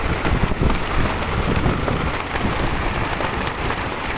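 Strong, gusty wind buffeting the microphone: a dense rumbling rush that swells and eases without a break.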